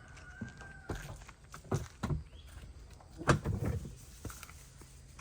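A few dull knocks and thumps from something being handled and moved, the loudest a little past three seconds in. A faint steady high tone sounds through the first second and stops.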